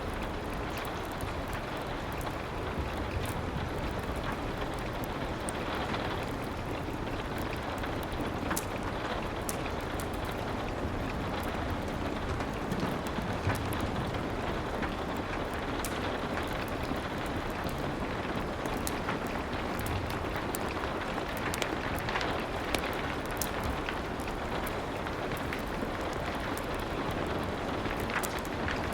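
Steady rain, an even hiss sprinkled with many faint sharp ticks.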